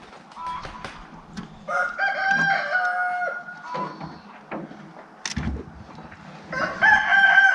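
A rooster crowing twice, each crow a long held call of about a second and a half, the first about two seconds in and the second near the end. A few light knocks come in between.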